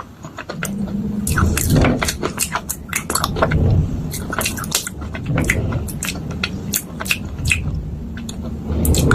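Close-up crunching of baked clay (matka) pieces: irregular sharp crackles and snaps over a low, dull grinding.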